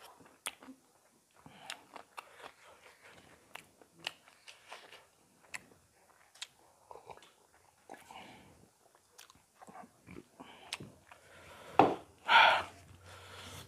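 Close-up chewing and lip-smacking of people eating chicken curry and rice with their hands, with many small scattered clicks. Near the end comes a short, much louder breathy burst.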